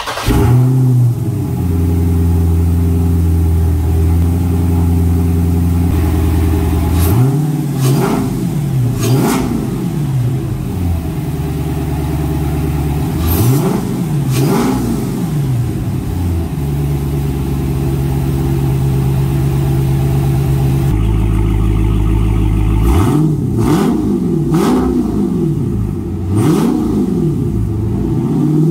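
Dodge Charger Scat Pack's 6.4-litre Hemi V8, fitted with a JLT cold air intake, idling steadily and revved in short blips several times, each rising and falling back to idle. First heard at the open engine bay close to the intake, then from behind the car at the exhaust tip.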